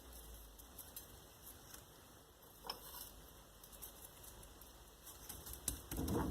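Faint crinkling, clicking and squishing of gloved hands rubbing a marinade of oil, salt, pepper and rosemary into raw steak, with a soft knock about two and a half seconds in and a louder thud near the end.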